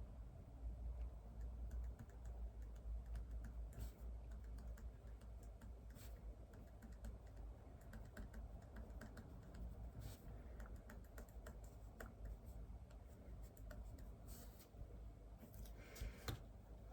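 Typing on a computer keyboard: a run of quiet, irregular key clicks with a few louder strokes scattered through, over a faint low hum.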